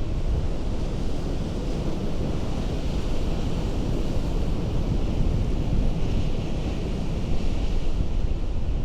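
Ocean surf breaking on a rocky coast: a continuous rush of water with a heavy low rumble, swelling briefly about two-thirds of the way through.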